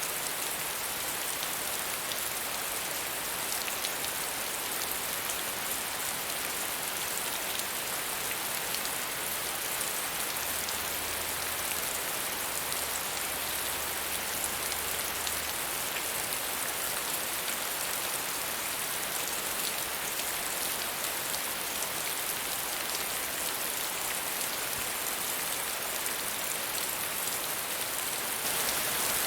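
Steady medium rainfall: a dense, even hiss of rain with scattered individual drop ticks, slightly louder near the end.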